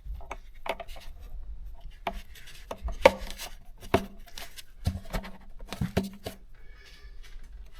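Hands working plastic engine-bay parts: a series of irregular light clicks and knocks with some rustling, the sharpest about three and four seconds in.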